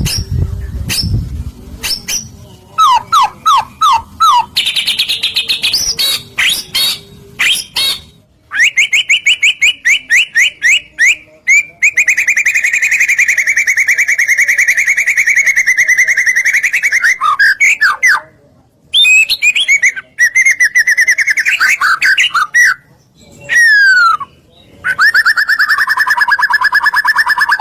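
White-rumped shama (murai batu) singing loudly in varied phrases: short whistled sweeps and bursts of quick repeated notes, with a long rapid trill in the middle and another near the end. A brief low rumble comes at the very start.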